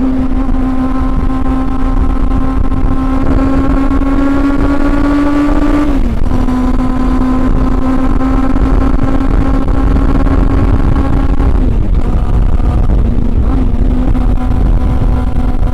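Honda CB400 Super Four's inline-four engine running under way at steady high revs. Its pitch climbs slowly for the first six seconds and dips briefly about six, twelve and thirteen and a half seconds in.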